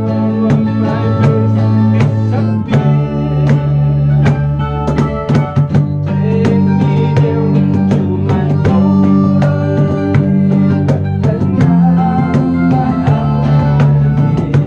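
A band rehearsing a song: guitar and drums over held low notes, with regular percussion strikes.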